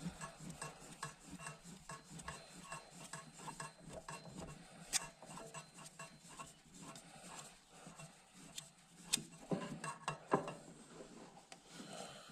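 Faint rubbing and small clicks of a loosened oil filter being spun off a mower engine by hand over a drain pan, with a few sharper metallic taps about 5, 9 and 10 seconds in.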